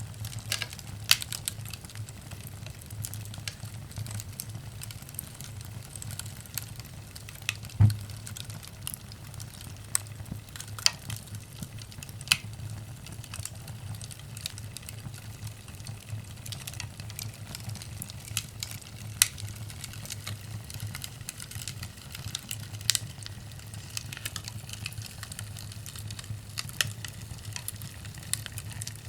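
Burning firewood crackling and popping, with irregular sharp snaps over a steady low rumble of the fire. One pop about eight seconds in is the loudest.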